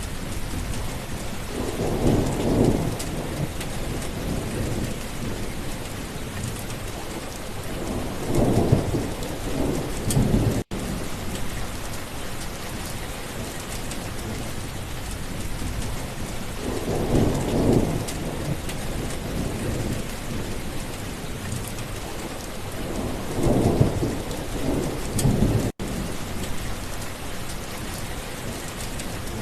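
Steady rain with four rolls of thunder, each swelling up for a second or two before fading back into the rain. The sound cuts out for an instant twice.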